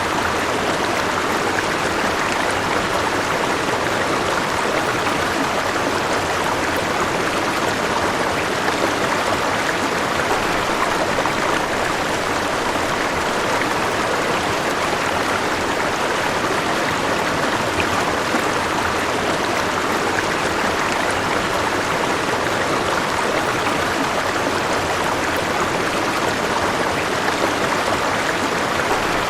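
A river flowing, its water rushing steadily with no pauses or changes.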